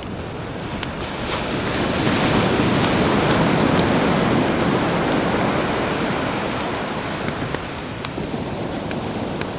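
Sea waves washing ashore, one swelling about two seconds in and ebbing away, with a crackling campfire giving scattered sharp pops over it.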